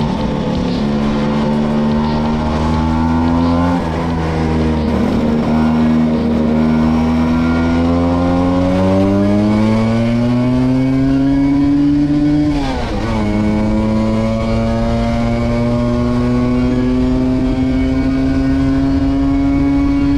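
Vespa V50 two-stroke scooter engine under way, its pitch climbing steadily as it pulls. About four seconds in and again near thirteen seconds the note drops sharply and then climbs again, as at a gear change.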